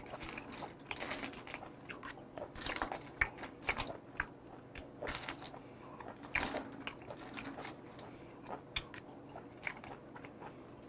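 Chewing of steamed goose barnacles and limpets picked up close on a lapel mic, with irregular sharp clicks of shells knocked by metal chopsticks in the pile.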